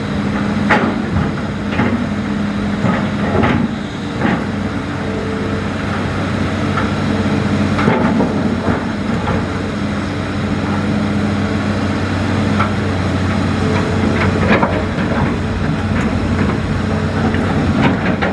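Hitachi Zaxis hydraulic excavator's diesel engine running steadily under load, with scattered sharp knocks and clanks from the machine at work.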